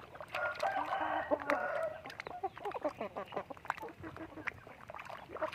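Chickens calling: a drawn-out call of about a second and a half, followed by a run of short, rapid clucks.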